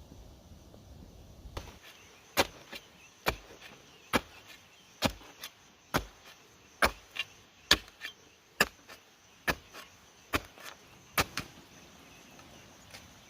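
Bamboo being chopped with a blade: a steady run of about eleven sharp strokes, a little under a second apart, with lighter taps between them. The chopping starts about two seconds in and stops shortly before the end.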